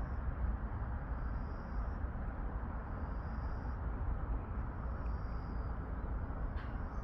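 Outdoor background noise: a steady low rumble with faint high-pitched buzzes repeating every second or two.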